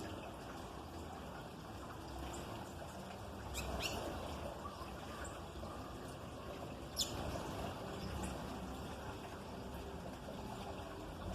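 A few short, high bird chirps, the clearest about four and seven seconds in, over a steady background hiss.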